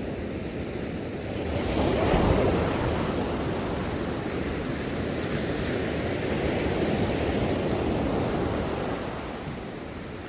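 Ocean waves breaking and washing on a shore: one surge swells up about two seconds in, holds as a long wash, and eases off near the end.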